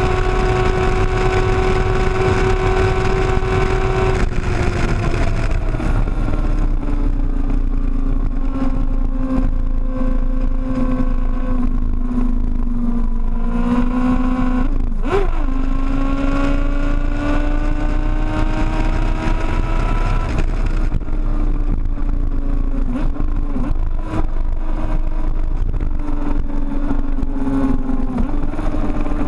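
Sportbike engine running hard at highway speed under heavy wind rumble on the microphone. Its pitch drops about four seconds in as the throttle eases, sags slowly, dips and recovers sharply about halfway, then climbs again and holds steady.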